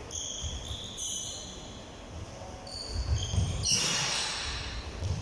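Basketball bouncing on a hard indoor court, with sneakers squeaking on the floor. A few thuds come about three seconds in and a short rush of noise follows just after. The hall echoes.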